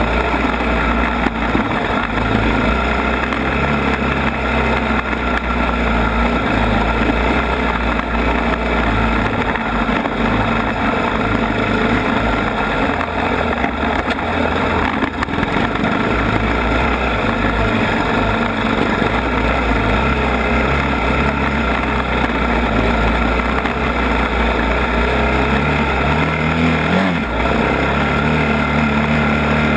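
ATV engine running steadily while being ridden, under a constant loud haze of noise. Near the end the engine pitch rises and falls as the throttle changes.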